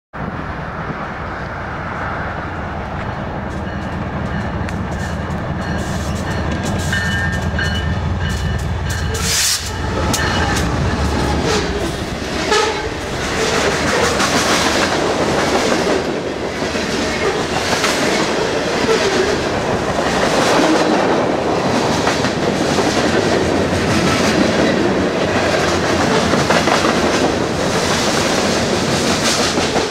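BNSF manifest freight train led by a GE ES44DC diesel locomotive approaching and passing close by: a steady low engine hum builds until the locomotive goes by about nine seconds in. Then the freight cars rush past with a rhythmic clickety-clack of wheels on the rails.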